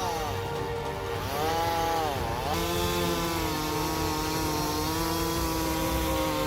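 Chainsaw engine running while cutting timber, its pitch rising and falling over the first couple of seconds, then holding steady from about two and a half seconds in.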